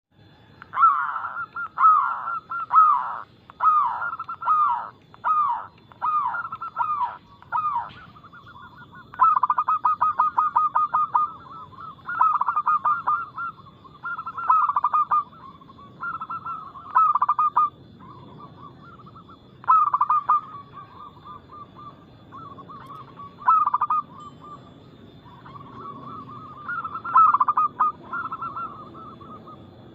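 Zebra doves (perkutut) singing, a lure track meant to set caged doves cooing: short repeated phrases of quick, pulsed coos, falling in pitch in the first several seconds and turning into rapid trills later, with brief pauses between phrases.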